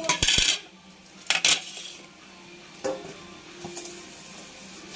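Kitchen utensils and cookware clattering: a few sharp metallic clinks and knocks, the loudest right at the start and again about a second and a half in, with lighter ones later.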